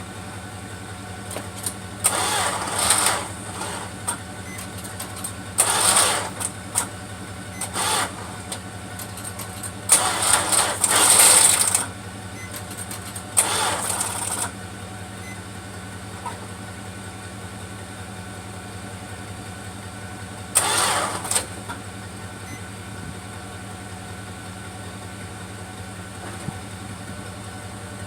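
The 1974 Plymouth Duster's slant six being cranked over in short bursts of a second or two, about six tries, in sub-freezing cold with a weak battery. A steady low hum runs underneath throughout.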